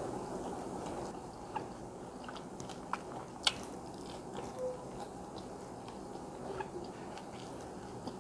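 Close-miked mouth sounds of someone eating biryani rice with the fingers: soft chewing with scattered small wet clicks, the sharpest about three and a half seconds in, over a steady low hiss.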